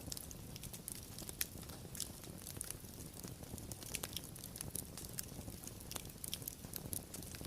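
Wood fire crackling: irregular sharp snaps and pops, several a second, over a low steady rumble of burning.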